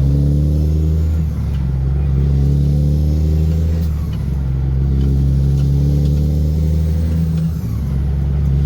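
Heavy truck engine pulling under load, with a short dip in sound and a shift in pitch about a second and a half in, again at four seconds and again near the end, as gears are changed smoothly.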